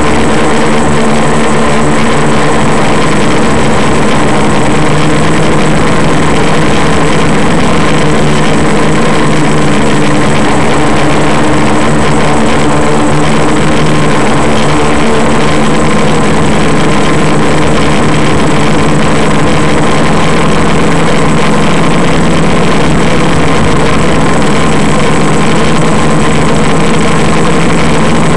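Quadcopter's electric motors and propellers running steadily in flight: a loud drone of several steady tones with a thin high whine above it, over a rush of noise.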